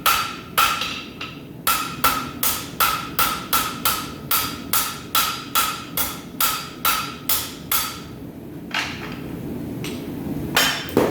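Blacksmith's hammer striking hot steel on an anvil in a steady rhythm of about two to three blows a second, each blow ringing, while a piece is drawn out. The blows stop about eight seconds in; a steady rushing noise comes up, with a few lighter strikes and one heavy one near the end.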